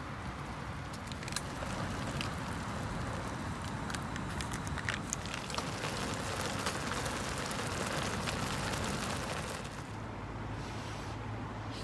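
Steady hiss of rain with scattered sharp crackles from a wood fire. About ten seconds in, the hiss drops away, leaving a low hum.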